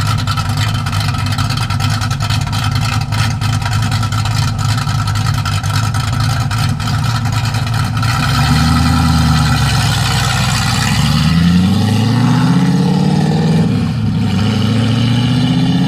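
Ford Mustang's engine and exhaust rumbling at low revs as the car pulls away. From about halfway through, the car accelerates, and the engine pitch rises in three successive climbs.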